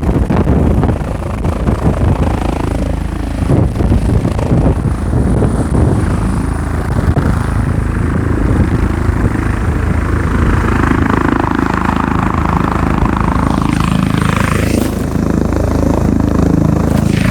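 Helicopter landing close by: a steady, loud, low rotor and engine drone, with a band of rushing noise building up in the second half.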